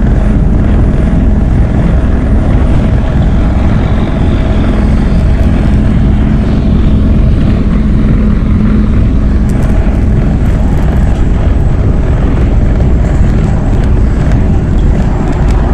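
MAZ-103 city bus running under way: a steady, loud diesel engine drone with road rumble, and light rattles in the second half.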